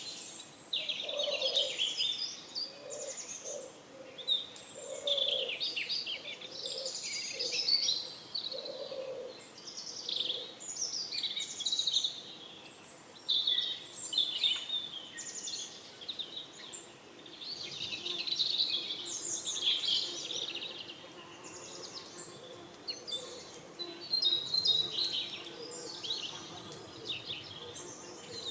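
Many small birds chirping and twittering in quick, overlapping calls, with pigeons cooing low in short repeated phrases during the first several seconds.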